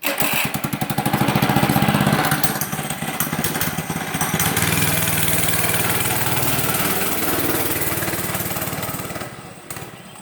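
Small dirt bike engine running close by with a rapid, even firing beat. It fades away near the end.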